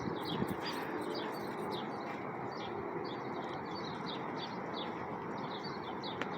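Small birds chirping, short high notes repeating about three to four times a second, over a steady background rush.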